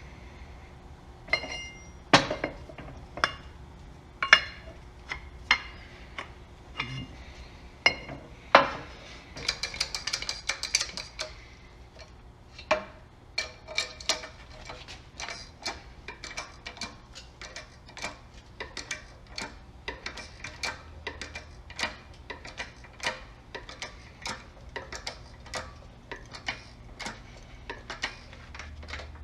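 Metal-on-metal clicks and taps with a short ring as tools work a press that draws a new rubber engine mount bushing into its housing. There are a few loud strikes in the first several seconds, then a steady run of lighter clicks about two a second.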